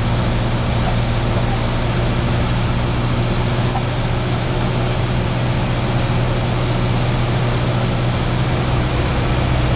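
Cessna 172R's four-cylinder Lycoming engine and propeller droning steadily in flight, heard inside the cabin, with a strong low hum under a dense wash of noise.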